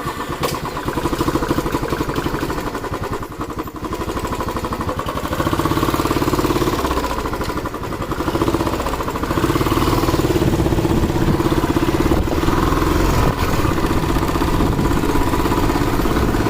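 Motorcycle engine running with an even pulsing note, picked up by a helmet-mounted mic. Its level rises in steps, with brief dips near four and eight seconds in, as the bike is ridden up through the gears.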